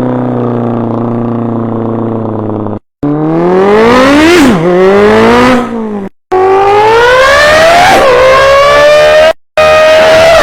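A man's vocal impression of a car engine: a steady low drone, then pitch climbing and dropping back again and again like a car accelerating up through the gears. Three brief dead-silent gaps break it.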